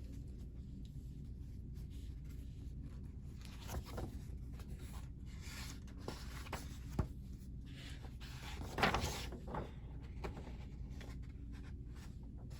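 Soft rustling and a few light knocks from paper and desk handling, over a steady low hum; the loudest rustle comes about nine seconds in.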